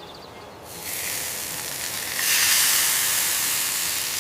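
Hissing sizzle of hot grilled chicken, starting about a second in, swelling to its loudest about two seconds in, then slowly fading.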